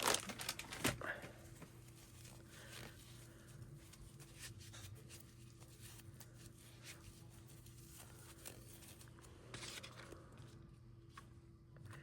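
Faint handling of paper and craft materials: soft rustles and occasional light taps, a little louder in the first second, over a low steady hum.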